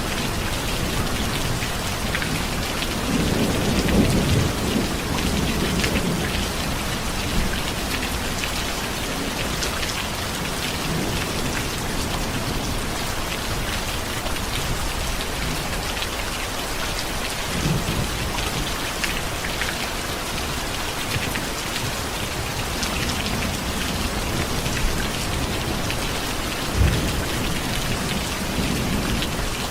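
Steady heavy rain, with low thunder rumbling: a longer roll swelling a few seconds in, then short low rumbles near the middle and toward the end.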